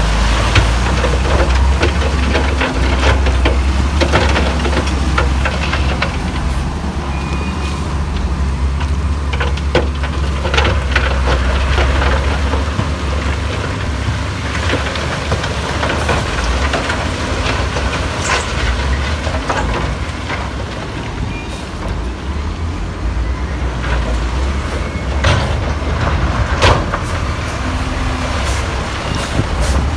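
Heavy diesel earthmoving machinery running: a deep, steady engine drone with frequent short clanks and knocks.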